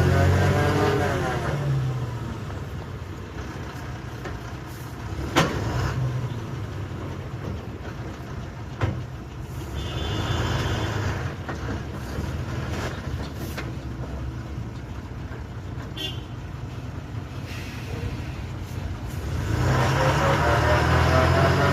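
Heavy truck engine running under load, revving up near the start and again near the end. Two sharp knocks come between the revs.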